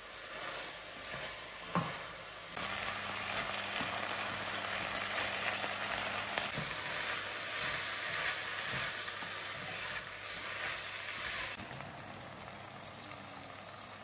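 Food sizzling in a hot frying pan as a steady hiss. It steps up suddenly about two and a half seconds in and drops back near the end, with a single click shortly before it rises.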